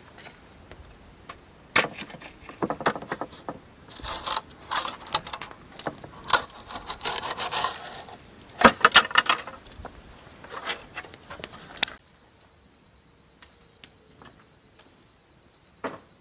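Clinking and rattling of small hard objects being handled, a dense run of sharp clicks and jangles that stops abruptly about twelve seconds in, followed by a single knock near the end.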